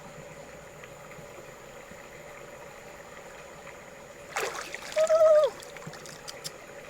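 A short splash or sloshing of shallow river water about two-thirds of the way through, followed at once by a brief, high-pitched vocal exclamation.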